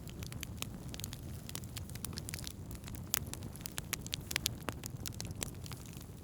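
Wood campfire crackling, with frequent sharp pops at irregular intervals over a steady low rumble. The loudest pop comes about three seconds in.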